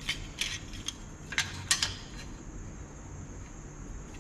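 Sliding bevel gauge being handled and set against the work: about half a dozen light metallic clicks and taps within the first two seconds.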